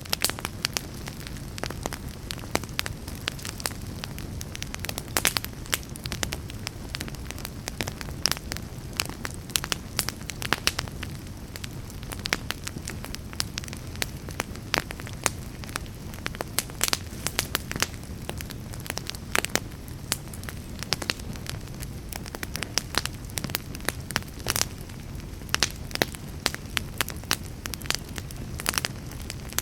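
Wood fire in a fireplace crackling, with frequent sharp pops and snaps, several a second, over the steady low rumble of the flames.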